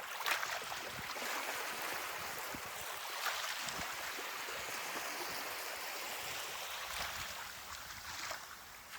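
Ocean surf washing onto a beach: a steady hiss of breaking and rushing water that swells in the first second and eases off near the end.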